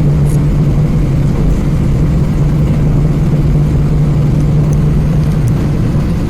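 Airbus A320 cabin on the ground before takeoff: the jet engines running at low power under the steady rush of cabin air, with a constant low hum and rumble.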